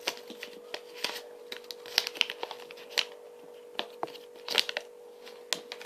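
Kinder Surprise toy packaging handled: crinkling and tearing of thin wrapper with irregular sharp clicks of small plastic parts.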